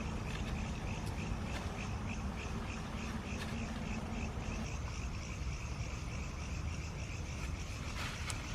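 Insects chirping in a steady rhythm, about four chirps a second, fading out around halfway, over a low steady rumble of outdoor background noise.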